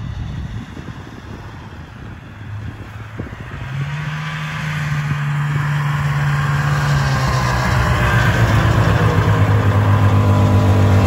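1979 Kawasaki Intruder 440 snowmobile's twin-cylinder two-stroke engine running as the sled is ridden. It is faint for the first few seconds, then grows steadily louder from about four seconds in, the engine note holding steady.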